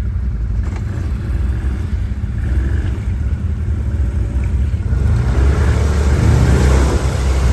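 Quad bike (ATV) engine running steadily with a low rumble; about five seconds in it gets louder and a rushing, splashing noise rises over it as the machine pushes through water.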